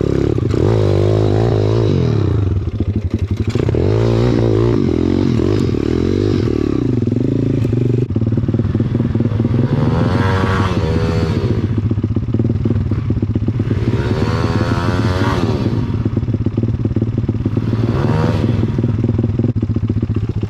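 Pit bike's single-cylinder four-stroke engine running under load, its pitch wavering early on and then revving up and dropping back three times, about ten, fourteen and eighteen seconds in.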